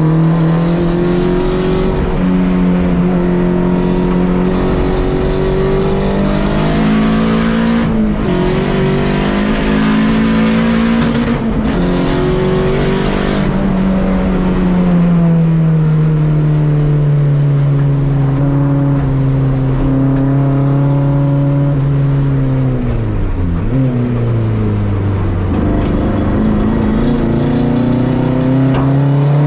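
Volkswagen race car engine driven on a track lap: revs climb with short breaks about 8 and 11 seconds in, ease off gradually, dip sharply around 23 seconds in, then climb again.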